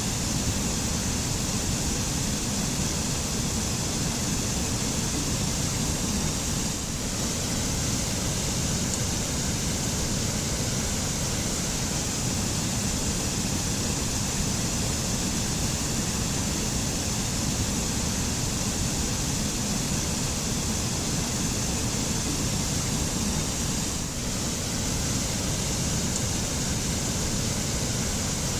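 Waterfall: a steady rush of falling water with a deep rumble underneath and a bright hiss on top.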